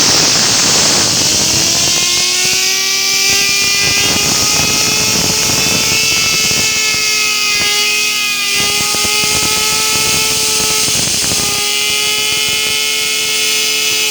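Compressed air hissing hard from an air compressor's blow gun onto a fidget spinner, which whines with a high tone that climbs in pitch over the first couple of seconds as it spins up, then holds steady with a few brief dips. The spinner is driven fast enough to throw sparks.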